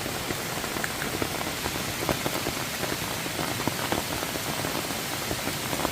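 Steady patter of water: a constant hiss dotted with many small drop-like ticks.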